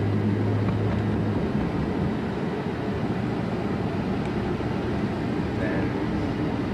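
Steady engine and road noise heard from inside a moving vehicle, with a low hum that drops away about a second and a half in.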